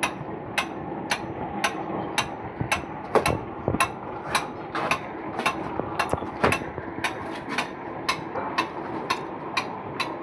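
Sharp metallic clicks at a very even pace, about two a second, over a steady machine hum, from work removing an engine's cylinder sleeve.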